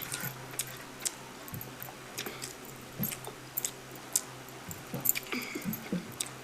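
A person chewing food with irregular wet smacks and clicks of the mouth, over a faint steady low hum.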